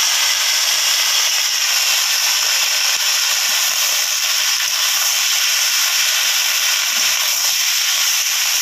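Freshly added shredded cucumber sizzling loudly and steadily in hot oil in an iron karai, stirred with a metal spatula.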